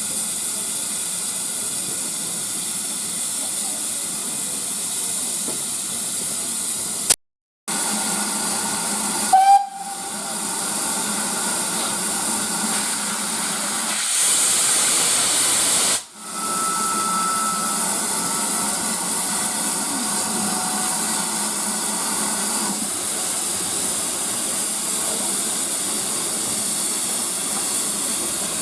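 Steam locomotive hissing steam steadily, with a short whistle blast about nine and a half seconds in. The hiss grows louder for a couple of seconds around the middle, then a faint steady whistle tone holds for several seconds.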